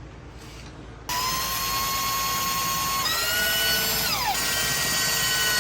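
Electric power drill running a fastener in. Its motor whine starts about a second in, steps up in pitch, then slides back down and holds steady.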